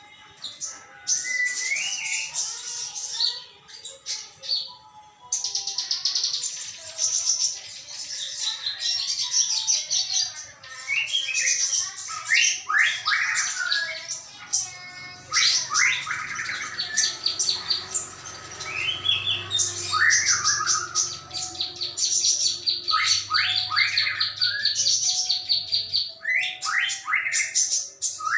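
Small songbirds chirping and twittering almost without pause: fast high trills mixed with short rising chirps.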